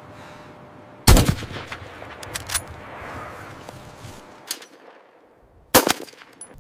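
Two loud, sharp cracks, one about a second in and one near the end, with smaller cracks and crackling between.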